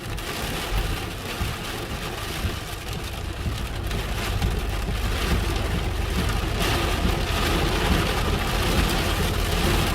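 Heavy rain pelting a vehicle's roof and windshield in a thunderstorm, growing louder over the first several seconds, over a low rumble.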